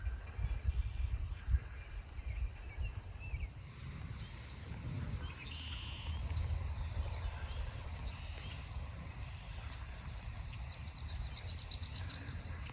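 Marsh birds calling in short bursts over a steady low rumble, with a rapid high-pitched trill near the end. At the very start a steady, lower trill fades out; it is likely the distant toads that are singing in the marsh.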